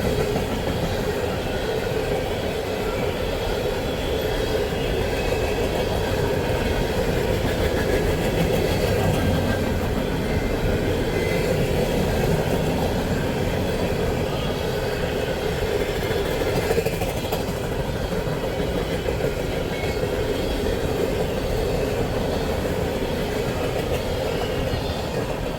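Train cars rolling steadily past on the track, with a continuous rumble of wheels on rail.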